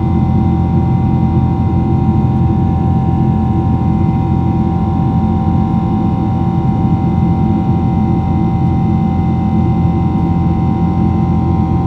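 Steady jet airliner cabin noise: a loud, even low rumble of engines and airflow with constant whining tones over it.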